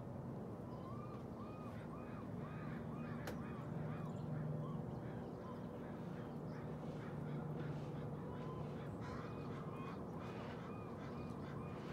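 A bird calling a quick run of short repeated notes, about two or three a second, in two bouts, a few seconds in and again near the end, over a low steady background hum.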